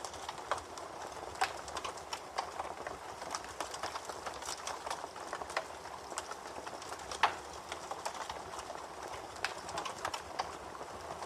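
Campfire crackling: burning wood giving a steady hiss with many small irregular pops and snaps, and one louder pop about seven seconds in.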